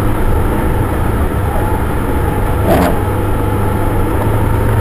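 Car interior noise while driving: a steady low engine and road rumble, with a short knock or rustle near the middle.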